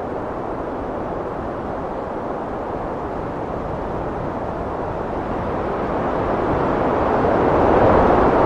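Heavy wind blowing steadily, swelling into a louder gust near the end.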